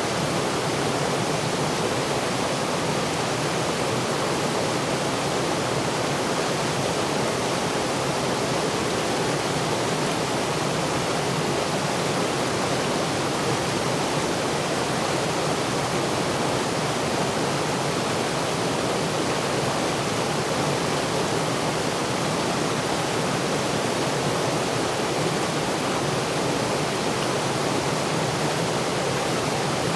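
Steady rush of a waterfall pouring over rocks, a constant unbroken roar of falling water.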